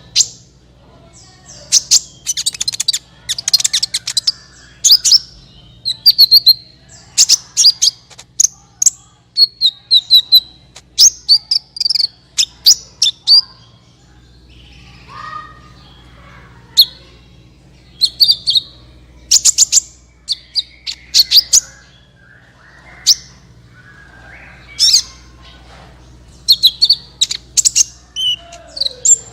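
Sunbird singing vigorously: rapid bursts of high-pitched chirps and twittering trills with short pauses between phrases.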